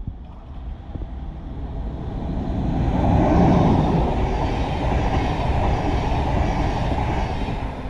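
ÖBB express train's passenger coaches rolling past at speed: a rush of wheel and rail noise that builds over the first three seconds, holds steady, then falls away near the end.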